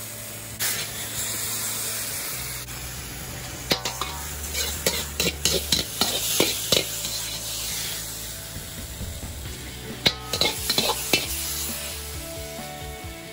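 Stir-frying in a wok: a steady sizzle, with the metal ladle scraping and knocking against the wok in clusters of sharp clacks. Background music plays underneath.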